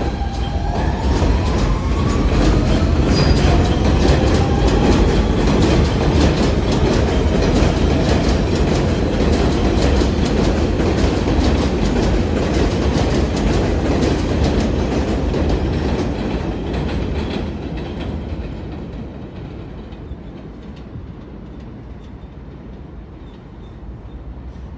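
R160 subway train pulling away. Its traction-motor whine rises in pitch over the first few seconds, then the wheels clatter rapidly over the rail joints. The train is loudest for about a dozen seconds, then fades as it goes off into the distance.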